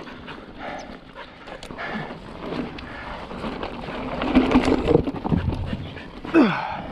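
Mountain bike rolling over slickrock, with the tyres rumbling and the frame knocking and rattling over bumps, and the rider breathing hard while pedalling.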